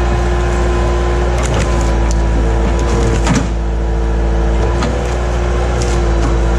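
Skid steer engine running steadily with a constant drone and whine, with a few sharp clanks scattered through.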